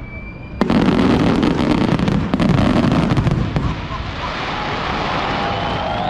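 Fireworks display: a sharp bang about half a second in, then several seconds of dense crackling from bursting shells over a low rumble, easing off after about four seconds.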